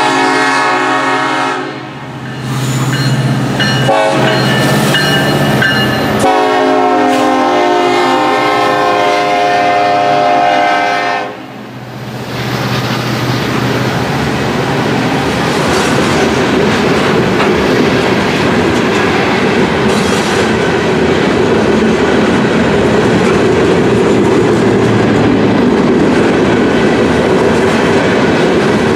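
Air horn of Arkansas & Missouri SD70ACe diesel locomotives sounding. The end of one long blast is followed by a short blast, then a long blast of about five seconds that starts some six seconds in, in the long–short–long pattern of a grade-crossing signal. After that, the locomotives' diesel engines and a long train of open-top hopper cars roll past steadily, wheels clicking over the rail joints.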